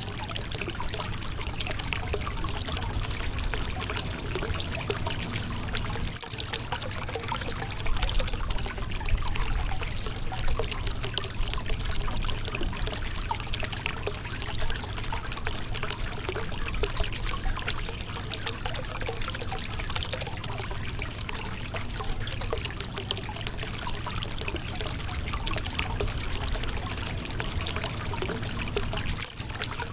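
Shallow river water flowing and splashing over a rocky bed, a steady rushing babble with small irregular splashes.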